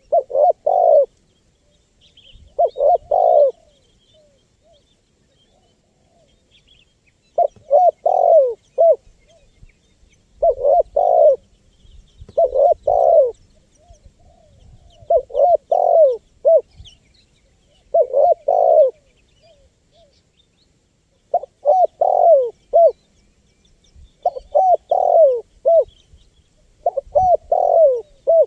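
Spotted dove cooing: a short phrase of three or four coos repeated about every two to three seconds, with faint high chirps of small birds behind it.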